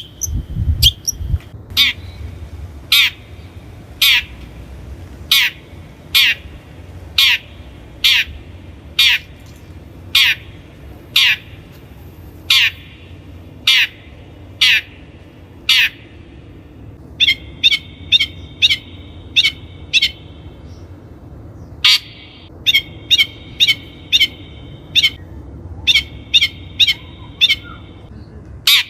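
Long-tailed shrike giving harsh, scolding calls, each a short falling note. The calls repeat about once a second, then come in quicker runs after about 17 seconds.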